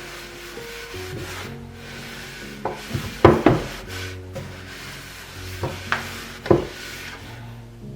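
Kitchen items being handled and rubbed during cleaning: scraping with a few sharp knocks, the loudest a little past the middle and again near the end, over soft instrumental background music.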